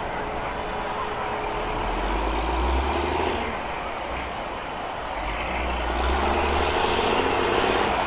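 Heavy vehicle engines, the school buses' engines, running and revving, swelling up twice in low rumbling surges.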